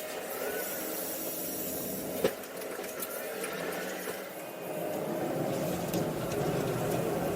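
Kubota SVL95-2 compact track loader's diesel engine running steadily, with a single sharp knock about two seconds in. The engine sound grows louder and lower about five seconds in.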